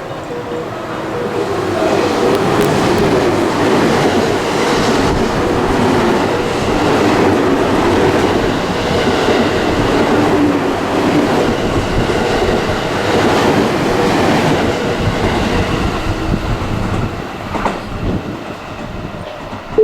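A JR West electric train running through the station without stopping: its noise swells about two seconds in, holds loud and even for some fifteen seconds, and dies away near the end.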